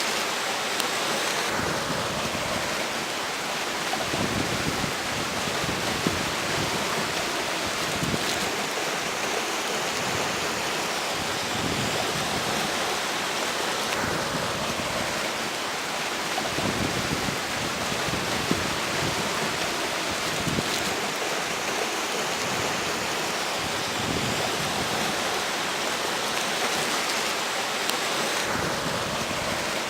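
River water rushing steadily, with strong wind gusting over it in an uneven low rumble.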